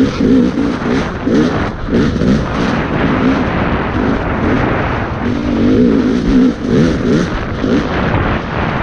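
Off-road dirt bike engine at race pace, its note rising and falling over and over as the throttle is worked, with a steady rush of noise over it.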